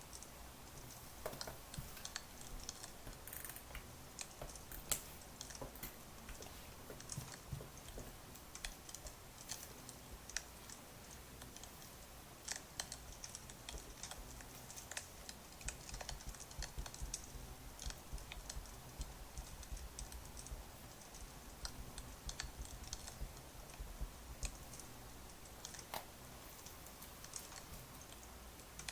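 Wood fire crackling, with irregular small pops and snaps over a faint low rumble.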